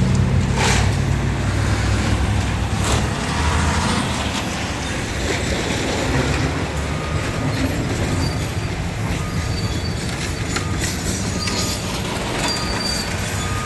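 A heavy diesel engine running close by, strongest in the first few seconds, with scattered metallic clanks and short thin squeals.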